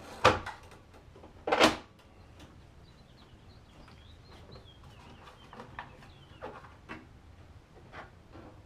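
Two sharp plastic snaps about a second apart, then a few faint clicks, as the turn signal connectors and grille are pushed back into place on the front of a 2002 Chevy S-10.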